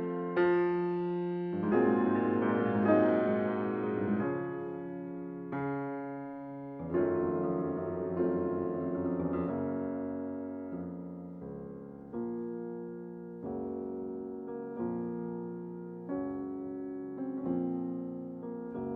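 Slow solo piano music: chords struck about every second or so, each ringing and fading before the next.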